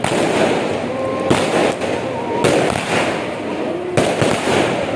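Firecrackers and fireworks going off: a continuous dense crackling punctuated by several sharp bangs about a second or so apart.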